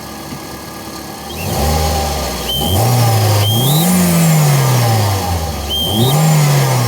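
Toyota car engine revved twice from idle with a novelty turbo-whistle fitted loosely in the air intake, giving three short high whistle chirps as the revs climb. The effect sounds poor rather than like a real turbo.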